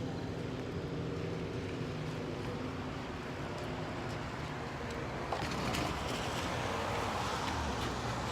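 Outdoor traffic noise: a steady low engine hum from an idling vehicle. From about five seconds in, a wider hiss of tyres on a wet road swells as a car passes.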